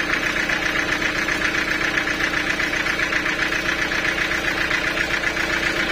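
Sawmill machinery running steadily, with a steady hum under a fast, even rattle.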